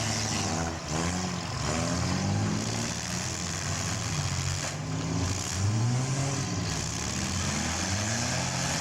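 Several compact-car engines revving at once in a mini car demolition derby, their pitches rising and falling over one another as the cars accelerate and manoeuvre.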